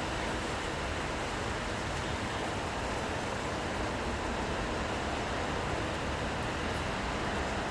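Steady city ambience in the rain: an even rushing noise of rainfall and street traffic, with no single sound standing out.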